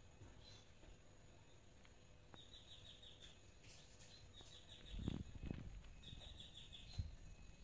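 Faint bird chirping in short, rapid trills that repeat every second or two. A couple of low thumps come about five seconds in, and a single knock near the end.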